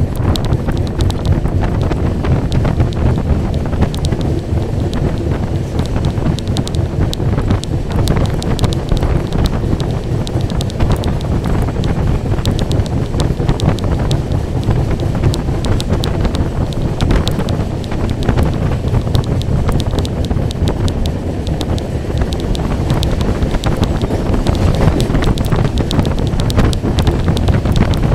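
Passenger train running at speed, its wheels clattering over the rails amid a steady rumble, with wind buffeting the microphone.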